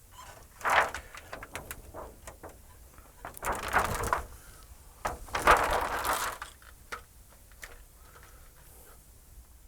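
Handling noises at a workbench: three short bursts of rustling and clatter with scattered clicks between them.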